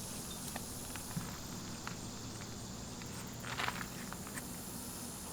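Light handling sounds: scattered faint ticks and a short scrape about three and a half seconds in, over a steady low background.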